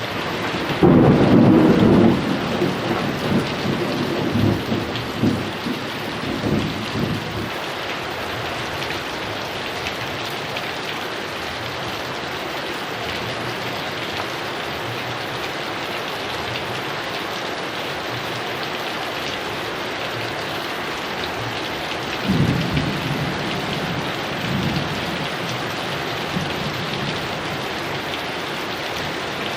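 Heavy rain falling steadily, with thunder: a loud rumble about a second in that rolls on and fades over several seconds, and a weaker rumble about two-thirds of the way through.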